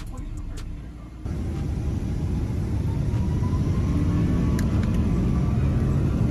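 Jet airliner engine rumble heard inside the cabin of a Boeing 777-200, cutting in about a second in and growing louder, with a faint rising whine as the engines spool up, typical of the takeoff roll.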